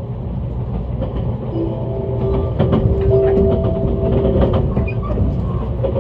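Train running along the line, heard from inside the carriage: a steady low rumble with repeated clicks of the wheels over rail joints. A steady tone joins in about a second and a half in and fades out about three seconds later.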